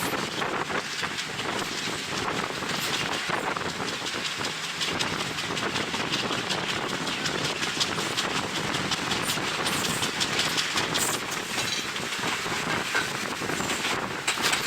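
Passenger train running on the line, its wheels and carriage clattering and rattling over the rails in a steady run of clicks, with wind rushing past the open window onto the microphone.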